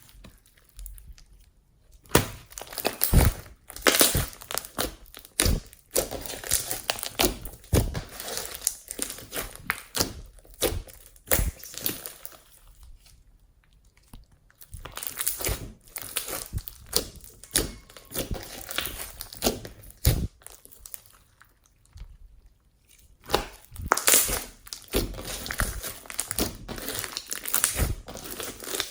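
Hands squishing, stretching and pressing slime, with irregular sticky crackles, pops and squelches in clusters, pausing briefly twice.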